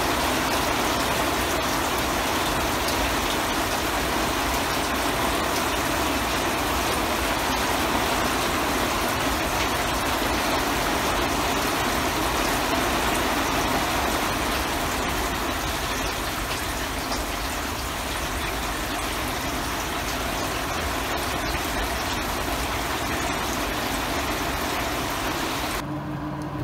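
Steady rain falling on a garden, an even hiss of rain with no let-up. It cuts off abruptly near the end.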